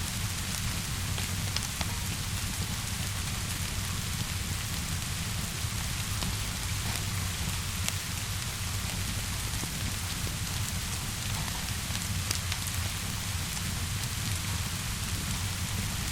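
Steady rainfall with a low, even rumble underneath and scattered sharp crackles of a wood fire.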